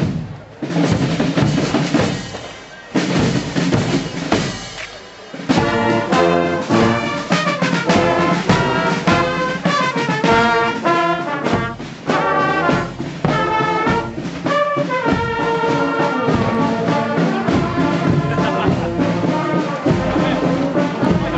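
Street band playing: drums beating alone at first, then about five seconds in brass instruments join with a tune over the drumbeat.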